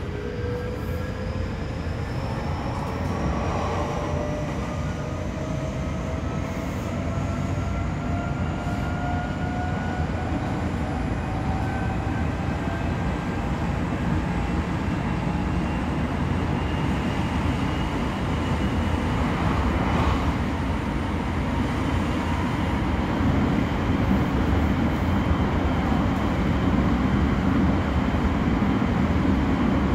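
Odakyu 3000-series (second batch) train's Mitsubishi IGBT VVVF inverter and traction motors whining as the train accelerates, heard from inside a motor car. Several tones rise slowly in pitch together over the running noise of wheels on rail, which grows gradually louder.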